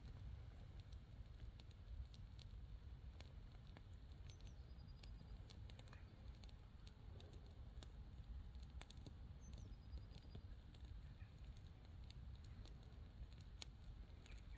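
Faint, irregular crackling of dry grass and kindling just catching alight in a bonfire, over a low rumble.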